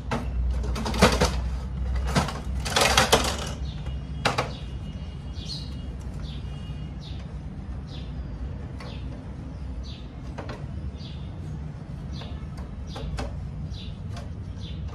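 Several sharp knocks and clatters in the first few seconds, like parts of a machine being handled, then a string of short high chirps, like a small bird calling, over a steady low hum.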